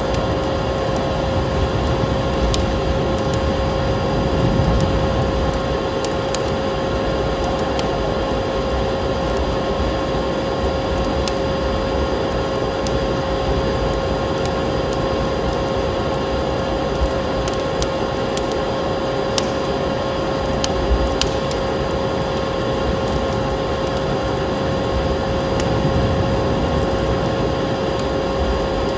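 Wood fire crackling in a fireplace, with scattered sharp pops, over a steady rushing background with a constant hum.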